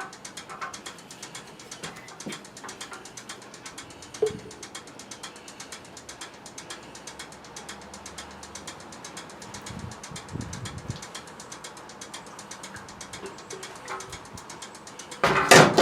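Rapid, evenly spaced mechanical clicking runs on steadily, like a ratcheting mechanism, with a few faint knocks and a loud, brief clatter near the end.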